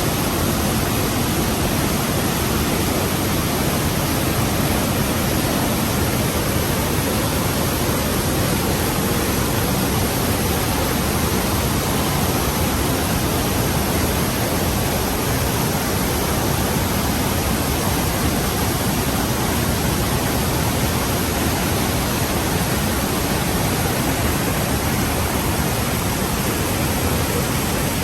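The Rhine Falls, heavy river water pouring over the falls: a loud, steady rushing noise with no change or break.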